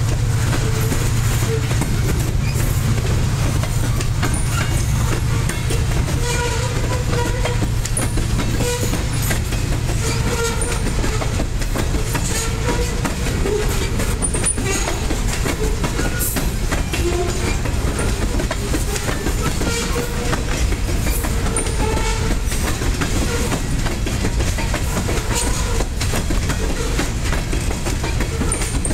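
Covered hopper cars of a long freight train rolling past close by: a steady rumble of steel wheels on rail with clickety-clack over the joints and scattered brief squeals from the wheels. The low rumble is heaviest in the first few seconds.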